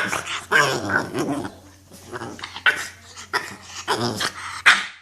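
French bulldog puppy growling and barking in a rapid string of short bursts, a frustrated, worked-up play fit.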